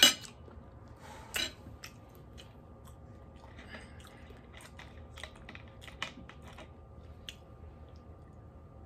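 A person chewing and eating food, with small scattered clicks and ticks of mouth and eating noise; a sharp click at the start and another about a second and a half in.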